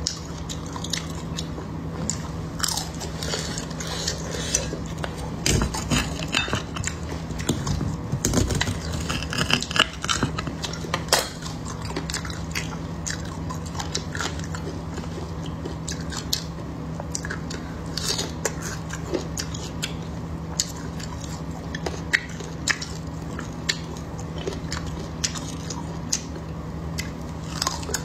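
Close-miked biting and chewing of a fatty, golden-fried piece of beef brisket, with wet mouth clicks and crackly crunches that come thickest about a third of the way in. A steady low hum runs underneath.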